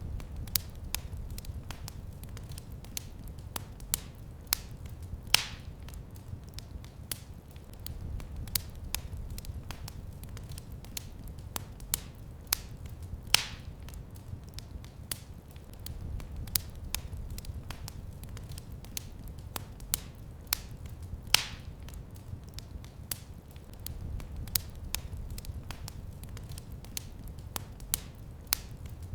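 Wood fire crackling in a fireplace: many small crackles and ticks over a low rumble of flames, with a louder sharp pop about every eight seconds.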